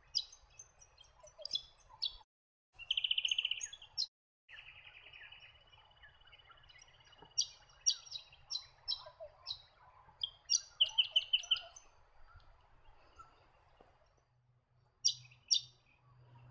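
Small songbirds calling: series of sharp, high chip notes with a buzzy trill and a longer rattling call, broken twice by brief silences in the first few seconds, over a faint low hum.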